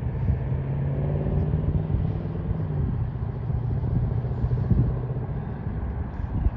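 A motor vehicle's engine running, a steady low hum over a rumble that steps down slightly in pitch about two and a half seconds in and fades near the end.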